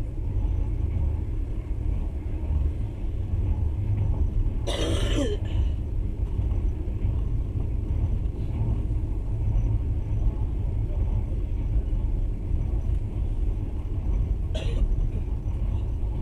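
Passenger train running along the track, a steady low rumble heard from inside the carriage. A short sharp noise comes about five seconds in, and a briefer one near the end.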